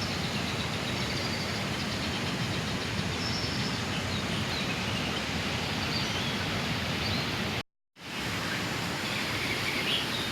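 Steady rushing outdoor noise with a few faint high chirps, broken by a brief dropout to silence about three-quarters of the way through.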